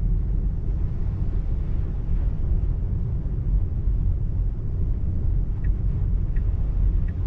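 Steady low road and tyre rumble from a car driving on wet pavement, heard from inside the cabin of an electric Tesla Model 3. In the last couple of seconds a faint turn-signal ticks about once every 0.7 seconds.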